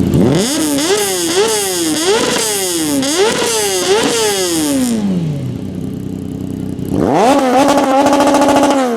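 A car engine with a loud exhaust is revved hard in about five quick blips, then drops back to idle. About seven seconds in it is revved again and held near one pitch with a rapid crackle, typical of a 2-step launch-control rev limiter.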